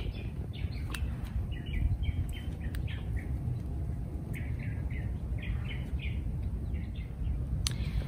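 Small birds chirping: clusters of short, quick chirps over a steady low rumble, with a couple of sharp clicks, about a second in and near the end.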